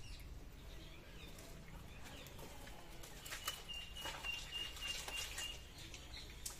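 A bird calls a quick run of high, even notes for about two seconds in the middle, over faint rustling and clicks of fish being picked out of a wet fishing net.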